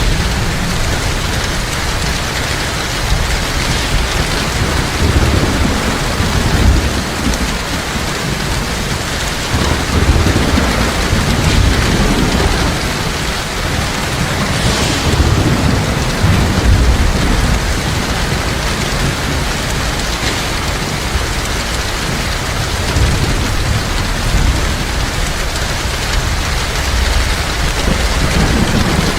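Heavy rain falling steadily, with low rolling rumbles of thunder swelling and fading underneath.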